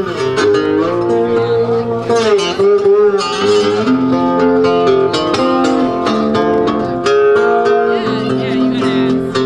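Live guitar playing, picked notes and chords with no singing, with a few notes bending in pitch a couple of seconds in.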